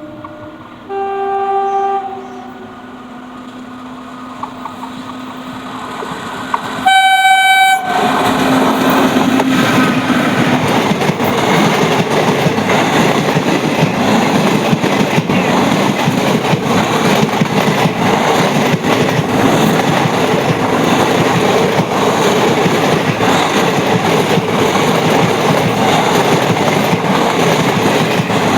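Indian Railways electric train sounding its horn twice, a shorter blast about a second in and a much louder one about seven seconds in, then passing close by. The wheels clatter loudly and steadily over the rail joints as the coaches go past.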